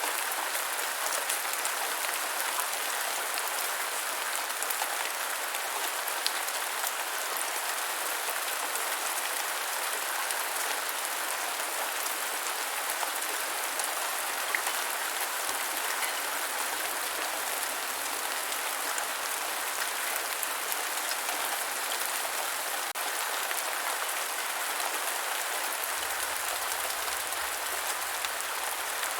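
Steady rain falling on the ground: an even hiss dotted with the taps of single drops.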